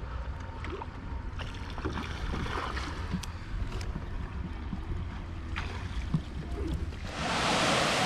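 Low rumble of wind and moving water with scattered small knocks and splashes. About seven seconds in, the loud, steady rush of a waterfall cuts in suddenly.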